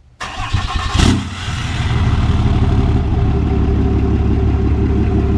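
Off-road racing truck engine running loud and steady, starting suddenly with a sharp bang about a second in.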